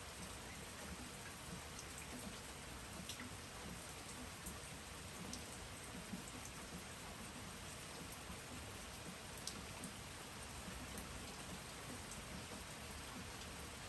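Steady rain falling: a soft, even hiss with scattered single drop ticks.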